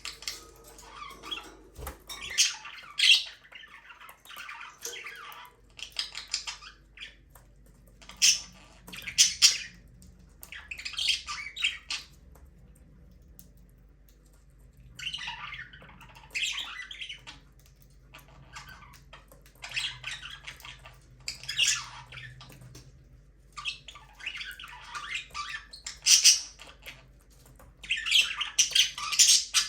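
Budgerigars chirping and chattering in bouts of a second or two, with short pauses between them.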